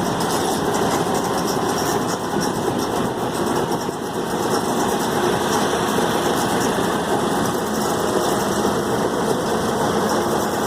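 A vehicle engine running steadily, with no change in pace.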